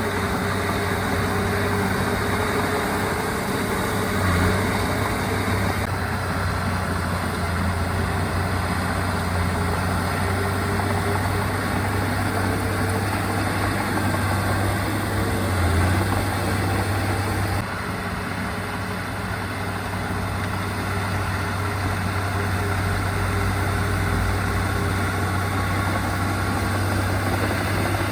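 Diesel engine of heavy earthmoving equipment running steadily with a low hum, dropping slightly in level about two-thirds of the way through.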